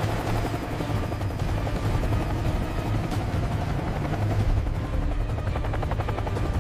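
Helicopter in flight: steady, rapid rotor-blade chop over the engine's low rumble.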